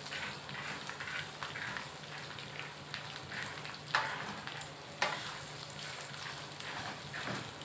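Peanuts and garlic frying in a wok, stirred and scraped with a wooden spatula, with a steady sizzle. Two sharper clacks of the spatula against the pan come about four and five seconds in.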